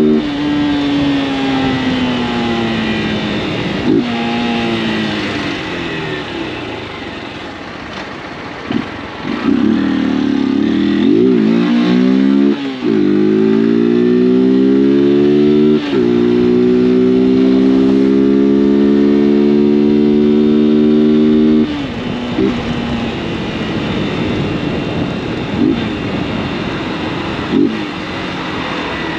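Honda CG 160 Fan's single-cylinder engine under way. Its note falls away as it slows, revs up and down twice, climbs and holds a steady higher pitch, then drops suddenly about two-thirds of the way through and runs on at a lower, even speed.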